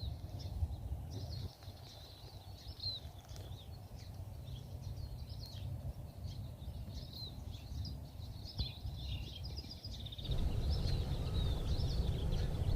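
Several small birds chirping and calling, with short twittering phrases and a quick trill about nine seconds in. Under them is a low steady rumble that gets louder about ten seconds in.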